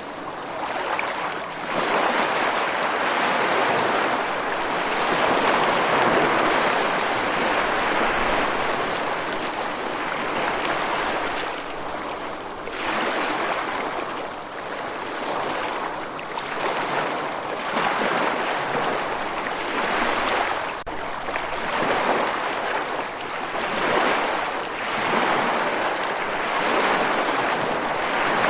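Rushing water: a continuous wash of noise that swells and eases every few seconds.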